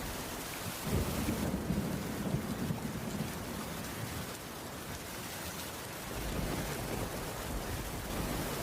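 Heavy rain falling steadily, with a low rumble that sets in suddenly about a second in and swells again near six seconds.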